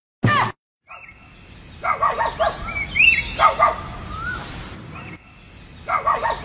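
Birds chirping in short bursts of rising and falling chirps. Before them comes a brief sweeping sound at the very start, then a moment of silence.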